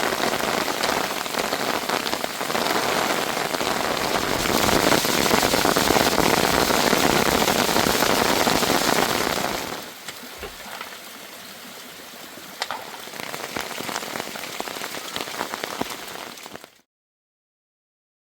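Heavy rain pouring down as a loud, dense hiss for about ten seconds, then dropping to a lighter patter with distinct drop impacts. The sound cuts off to silence near the end.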